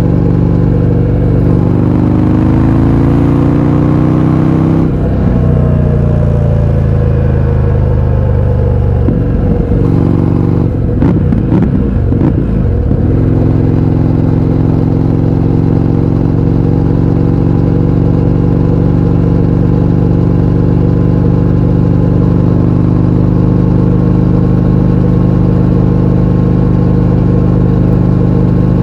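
Indian FTR 1200's V-twin engine through an Akrapovič exhaust with the baffles removed, loud. It climbs in pitch for about five seconds, drops off and winds down, and changes pitch quickly a few times near the middle. For the rest it runs at a steady pitch.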